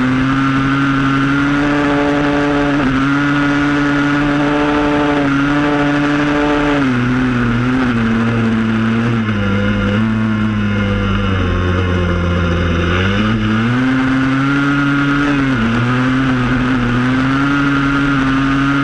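Yamaha Blaster's two-stroke single-cylinder engine running hard at steady high revs. About halfway through, the revs drop for several seconds, then climb back up and hold.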